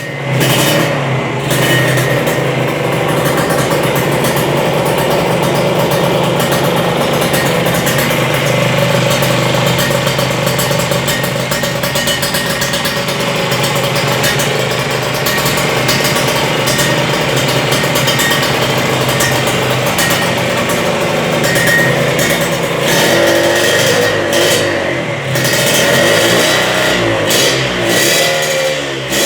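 Kawasaki Ninja 150 R two-stroke single-cylinder engine running through a short aftermarket exhaust, held at a steady fast idle for most of the time. Near the end the pitch starts to waver and the engine is briefly blipped up and down.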